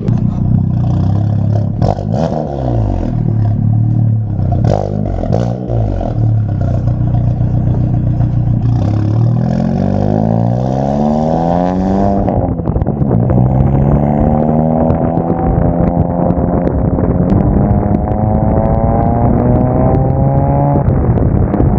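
Volkswagen MK7 Golf GTI's turbocharged four-cylinder, with an IS38 turbo and aftermarket exhaust, accelerating hard. The revs climb through a gear, drop at an upshift about twelve seconds in, then climb again until another shift near the end. A few knocks and clatter come in the first several seconds.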